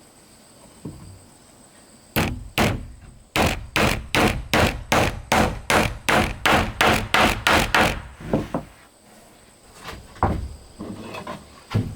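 Hammer striking wood: two blows, then a steady run of about a dozen blows at roughly three a second, followed near the end by a few softer knocks.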